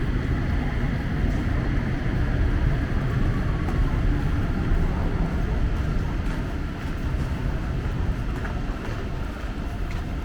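Steady low rumble of an O-Train light-rail train and its station after the doors have opened.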